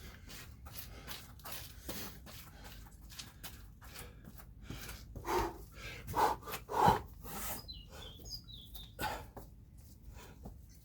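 A man breathing hard and moving through a burpee rep, with short puffs and body-on-floor sounds and a few louder bursts in the middle. A few faint, high chirps come about eight seconds in.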